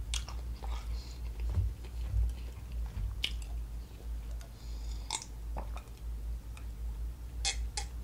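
Close-miked mouth sounds of a person eating: chewing with scattered wet smacks and clicks, then sips from a glass of iced drink.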